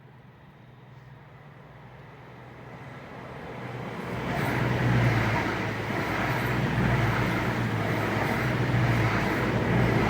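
Two coupled Class 220 Voyager diesel multiple units passing through at speed. A steady low engine drone and wheel-on-rail noise build up over the first four or five seconds, then stay loud as the train goes by.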